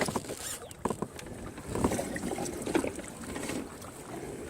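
Irregular knocks and mechanical clicking from a fishing kayak and its gear, about one a second, over a steady rush of water and wind.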